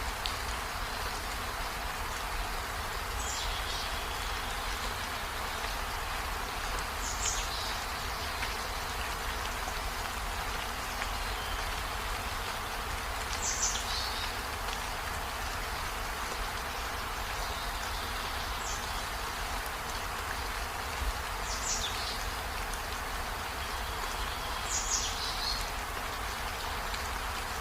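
Steady rain falling as an even hiss. About six short, high chirps, each falling in pitch, come through it a few seconds apart.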